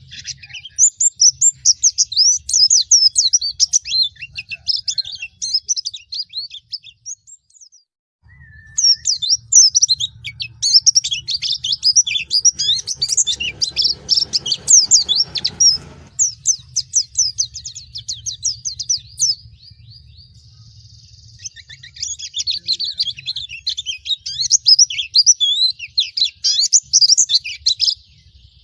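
A pleci (white-eye) singing long, fast runs of high twittering chirps, broken by two short pauses, one about seven seconds in and one about twenty seconds in.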